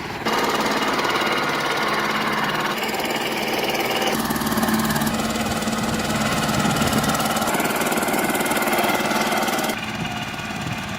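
A small engine running steadily. The sound changes abruptly about four seconds in and drops back near the end.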